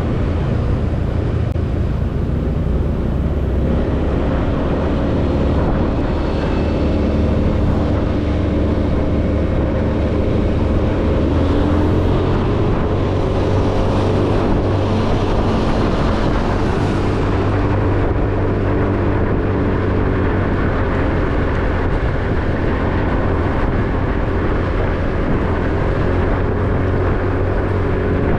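Motorcycle riding along a road: its engine runs steadily under heavy low wind and road rumble.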